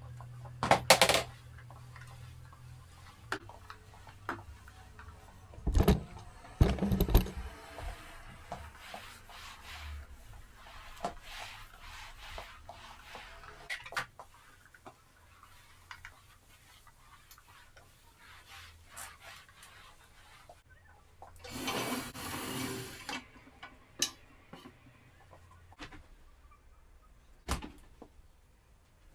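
Scattered knocks, clatters and handling sounds of household work, loudest about a second in and around six to seven seconds in, with a short rushing sound a little past twenty seconds.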